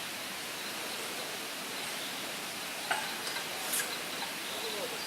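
Steady outdoor rushing noise, with a short click about three seconds in and a brief high chirp a little later.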